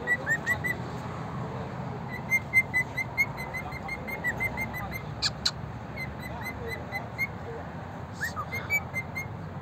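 A caged bird calling in quick runs of short, whistled chirps, several runs in a row, with two sharper squeaks about halfway through.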